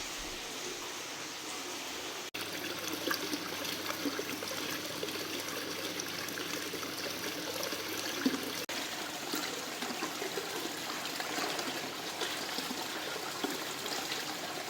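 Running water trickling and splashing steadily, a little louder after about two seconds.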